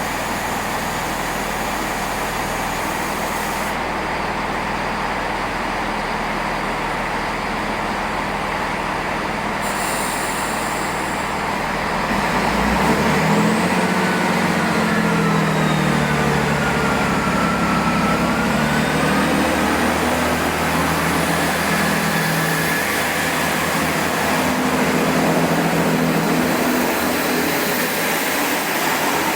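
Great Western Railway diesel multiple unit's underfloor engines running steadily at a standstill, then growing louder about twelve seconds in, their pitch rising and falling as the train powers up to pull away.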